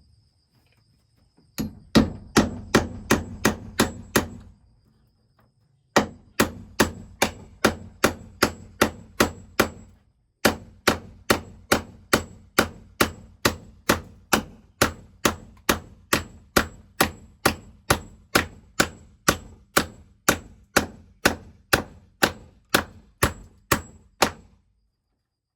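Hammer blows on wood, struck in a steady rhythm of about three a second, in three runs with short pauses about four and ten seconds in.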